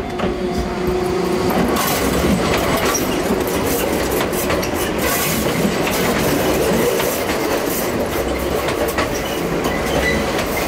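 Enoden (Enoshima Electric Railway) train passing close by, with a steady rumble and its wheels clacking over the rail joints.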